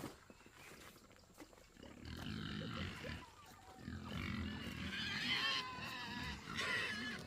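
Farm animals calling: it starts about two seconds in and grows louder, with high wavering cries over lower calls.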